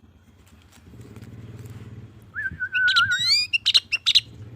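Sooty-headed bulbul (kutilang) calling: from about halfway, a short wavering phrase, then quick falling notes and two or three sharp calls, from a male in breeding condition. A steady engine hum runs underneath from about a second in.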